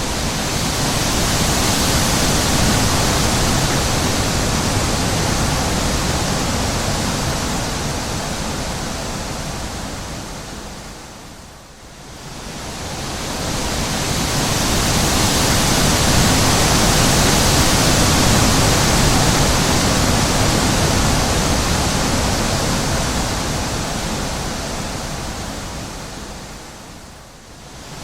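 Wind blowing in two long gusts, each swelling up and dying away over roughly a dozen seconds, a rushing hiss with a low rumble beneath it.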